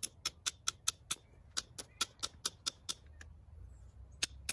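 Flint being knapped: quick, light, sharp taps on the edge of a thick flint flake, about four or five a second for roughly three seconds, breaking off the corners to shape an end scraper. After a pause, two more taps near the end.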